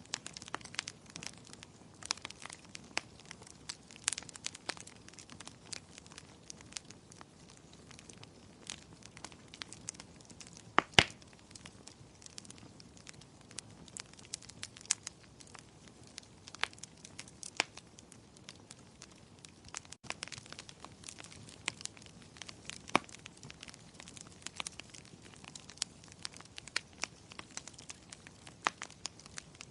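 Wood fire crackling, a stream of irregular small snaps and pops with one loud pop about eleven seconds in, over a faint steady hiss.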